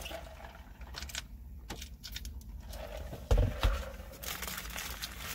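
Mouth sounds of a person chewing a burger: scattered wet clicks and smacks. Two low thumps about three and a half seconds in are the loudest sounds.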